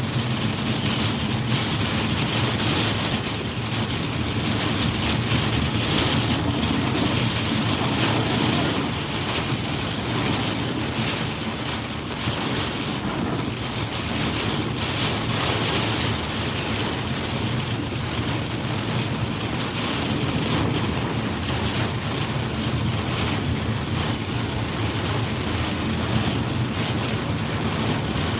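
Heavy monsoon rain pelting a moving car, with steady tyre and road noise underneath.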